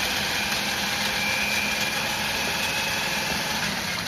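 Drill spinning a Husky drum-type hand-snake attachment, running steadily with a constant whine as it turns the snake cable in a drain pipe.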